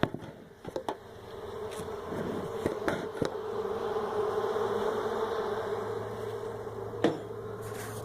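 A large honeybee colony inside a floor cavity humming steadily, the hum swelling after about two seconds. A few sharp knocks come near the start, around three seconds in and about seven seconds in.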